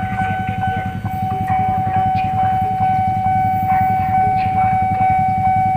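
Long freight train rumbling through the station, with a steady high-pitched whine held on one note throughout.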